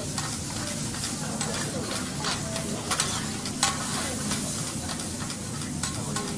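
Food sizzling and frying on a teppanyaki griddle as a steady hiss, with a few sharp clicks of a spatula on the hot plate around the middle.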